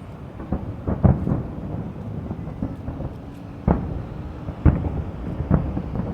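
Aerial fireworks shells bursting: a string of deep booms, the loudest about a second in and others about midway and near the end, over a steady low rumble.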